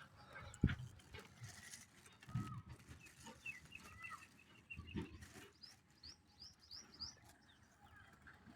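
Small birds chirping, with short quick calls repeated in runs, and a few dull low thumps, the loudest less than a second in.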